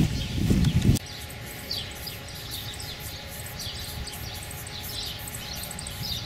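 A loud low rumble for about the first second that stops abruptly, then small birds chirping: many short high chirps scattered over a quiet outdoor background.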